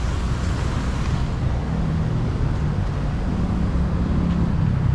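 Road traffic: a steady low rumble of vehicles, with an engine hum joining a little under two seconds in.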